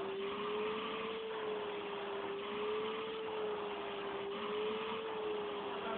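Vacuum cleaner motor running steadily with a whine and rushing air, its pitch rising and falling slightly a few times.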